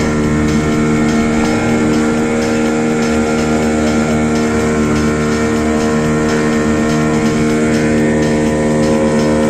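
Motorboat engine running at a steady speed, a constant droning hum with no change in pitch.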